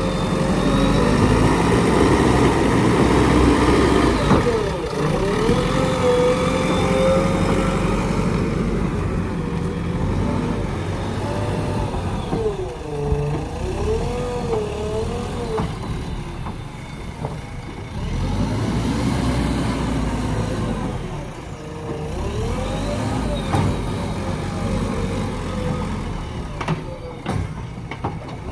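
JCB backhoe loader's diesel engine running steadily under working load, its pitch repeatedly rising and falling as the hydraulics are worked.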